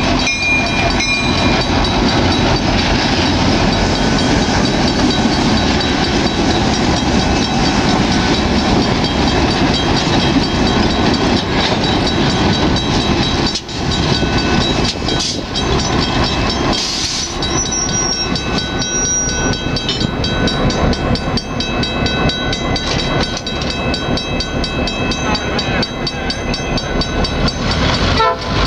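Pee Dee River Railroad GP16 diesel locomotives and a string of boxcars rolling past at close range: a loud, steady mix of engine noise and wheels on the rails.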